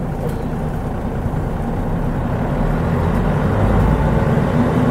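Mitsubishi Fuso Aero Star bus's 6M70 turbocharged diesel engine running under way. The engine grows stronger and a little louder about halfway through.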